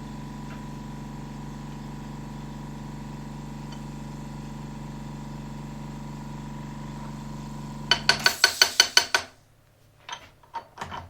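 Bridgeport milling machine motor running with a steady hum, then switched off about eight seconds in. As it stops there is a fast run of sharp metallic clicks, about eight a second, lasting just over a second, followed by a few light metal clinks near the end.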